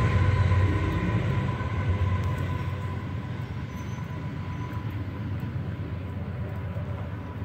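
Union Pacific train rolling away, its low rumble fading steadily, with a ringing tone dying away in the first second or two.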